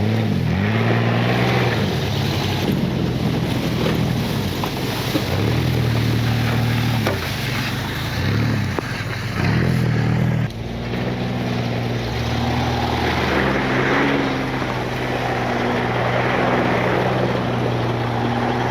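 Mud truck's engine revving up and down under throttle. About ten seconds in the revs drop suddenly, and it then runs more steadily with small surges.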